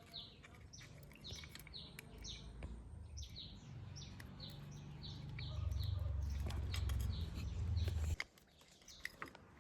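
Small birds chirping over and over in quick, high notes. Under them a low rumble builds, is loudest for a few seconds, and cuts off suddenly about eight seconds in.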